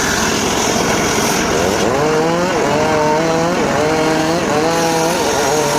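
Homemade circular sawmill running and cutting teak, its steady whine sagging in pitch several times as the blade slows under the load of the cut and then recovering.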